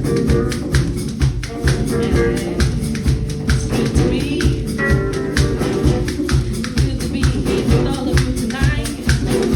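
Hand drums playing a quick, steady rhythm in a drum circle, with pitched instruments and some singing over it.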